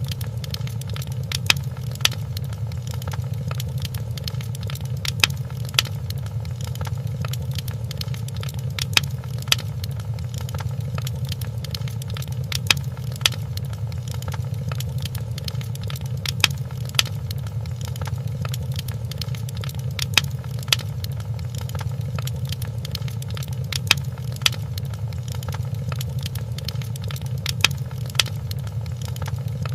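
Wood fire crackling in a fireplace: a steady low rumble with sharp pops that come in pairs every few seconds.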